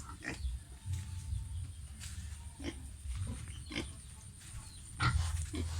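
Pigs grunting low and on and off, louder near the end, with a few short sharp sounds between.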